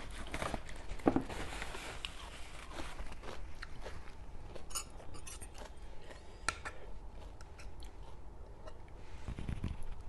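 Close-miked chewing and crunching of spicy Thai seafood salad, with a run of short sharp cracks, the loudest about a second in.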